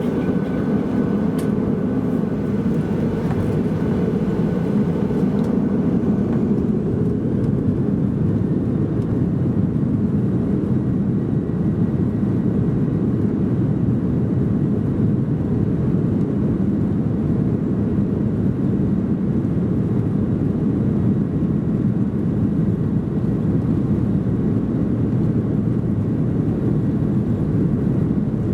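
Boeing 737-800's CFM56-7B jet engines at takeoff power, heard from inside the passenger cabin as a loud, steady roar.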